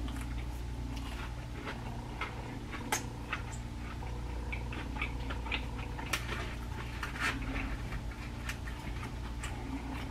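A person chewing food, with scattered, irregular small mouth clicks and smacks over a steady low hum.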